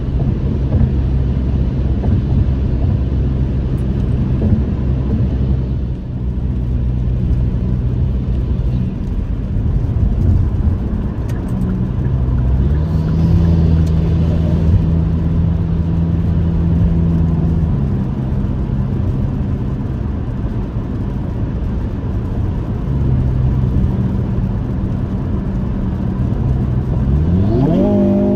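Hyundai Kona N's turbocharged four-cylinder engine droning at highway cruise over steady tyre and road noise, its pitch shifting a few times. Near the end the engine revs climb steeply as the car accelerates.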